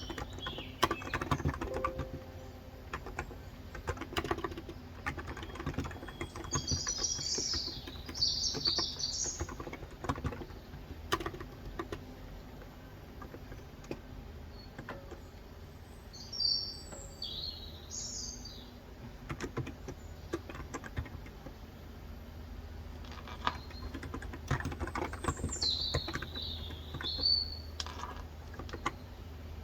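Typing on a Cox Endeavour 35 g electrostatic capacitive tenkeyless keyboard, the keys clicking in uneven runs. Birds chirp in three short bouts spread through.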